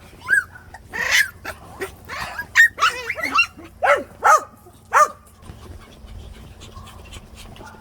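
Puppies yipping and barking in play: a rapid string of short, high-pitched yips over the first five seconds, then they fall quiet.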